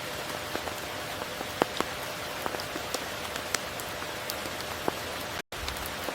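Steady tropical rain hiss with scattered close drop ticks. The sound cuts out for a split second about five and a half seconds in.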